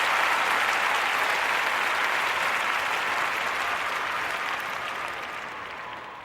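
Audience applause from many people clapping at once, even and dense, fading away over the last two seconds or so.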